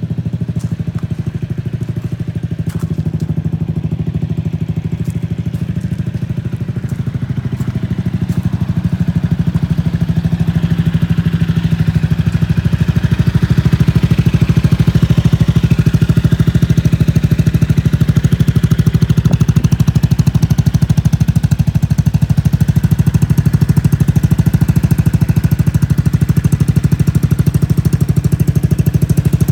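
Honda Fusion scooter's single-cylinder engine running steadily after start-up, growing louder about a third of the way in and then holding at the higher level.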